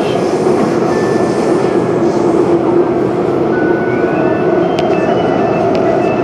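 Running noise of an MTR West Rail Line eight-car train heard from inside the car: a steady, loud rumble with a faint high whine that glides up slightly about four seconds in. Two light clicks come near the end.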